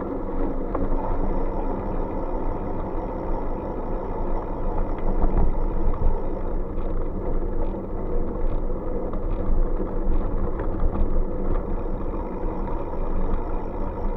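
Wind rumbling on the microphone and road noise from a moving bike, a steady rumble that swells unevenly.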